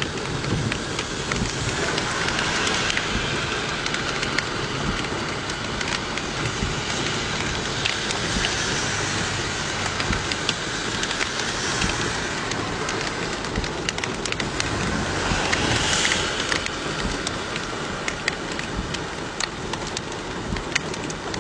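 Steady rain falling, with many individual drops ticking on nearby surfaces. The hiss swells a few times, loudest about sixteen seconds in.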